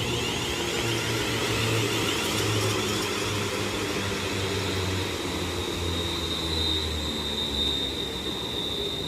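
Class 350 Desiro electric multiple unit running into the station and slowing, with a low rumble and a steady high-pitched whine that grows stronger in the second half.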